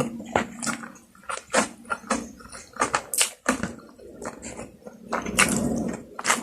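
Close-miked eating: irregular wet mouth clicks and smacks while chewing food, getting denser and louder about five seconds in.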